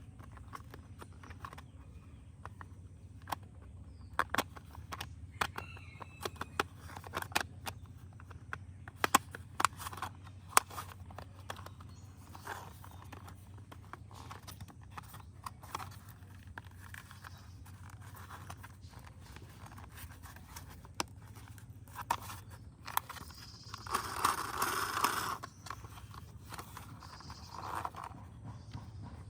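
Plastic toy car parts being handled and fitted together: scattered clicks and knocks, with a longer rustling scrape near the end, over a steady low hum.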